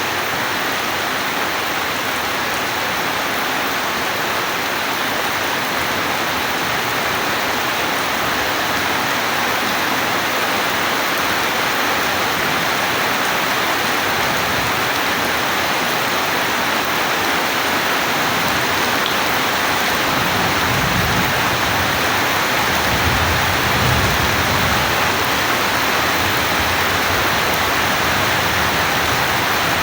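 Steady rain falling, an even hiss of drops. About two-thirds of the way through, a low rumble of distant thunder swells and fades under it.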